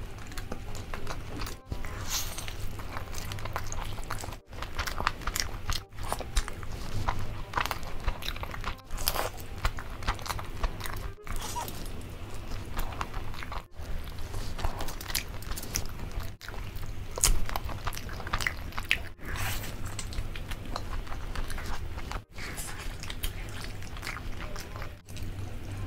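Close-miked eating of roasted tandoori chicken: biting into and chewing the meat with wet, clicky mouth sounds, broken by short gaps every few seconds.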